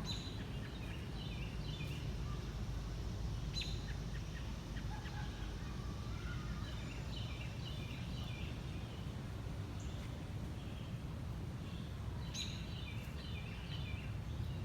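Songbirds chirping: phrases of short, quick high notes, each opening with a sharp high note, come three times, with scattered chirps between, over a steady low rumble.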